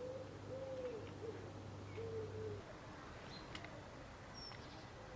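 Pigeon cooing: a run of low, arched coos that ends about two and a half seconds in, over a low steady hum that stops at the same moment. A sharp tick and a few faint high chirps follow.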